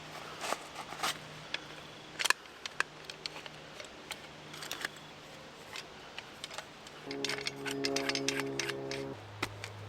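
Scattered clicks and snaps of sticks and forest litter being handled, denser near the end, over low sustained notes that change pitch twice, like a soft background music bed.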